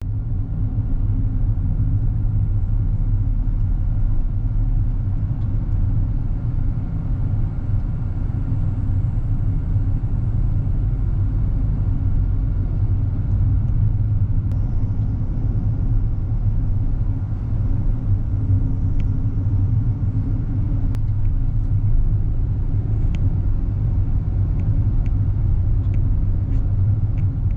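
Car driving: a steady low engine and road rumble, with a few faint ticks in the second half.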